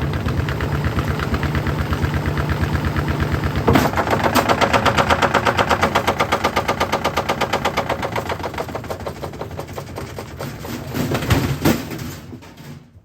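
LG washing machine drum spinning with a brick tumbling inside, banging against the drum many times a second in a rapid, machine-gun-like rattle. It gets louder after a sharp hit about four seconds in, then the bangs slow and fade as the drum winds down, with a couple of heavier thuds near the end.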